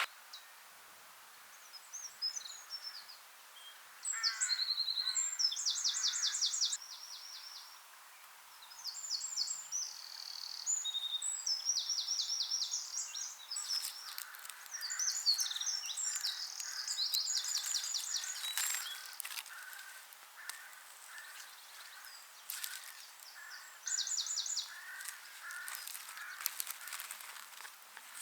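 Wild birds singing outdoors: several bursts of fast, high trills, joined in the second half by a lower call repeated a few times a second, with a few faint clicks between.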